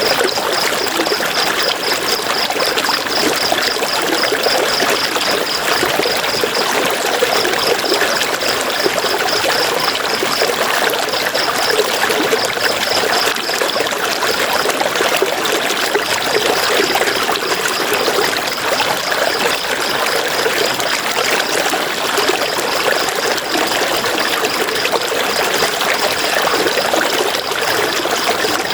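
River water flowing and trickling in a steady rush. Over it, a high-pitched rapid pulsing chirp repeats in runs with short breaks.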